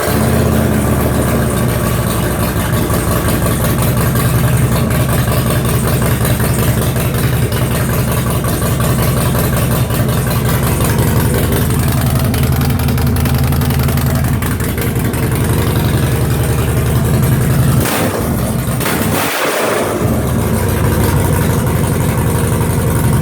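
2015 Harley-Davidson Street Glide Special's air-cooled Twin Cam 103 V-twin idling through a 2-into-1 Black Destroyer exhaust, with one short blip of the throttle about eighteen seconds in.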